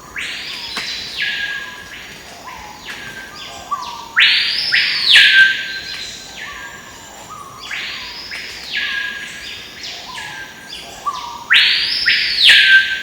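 A bird calling loudly four times, about every four seconds. Each call sweeps up, holds high, then drops to a lower held note, with fainter echoing copies between the calls.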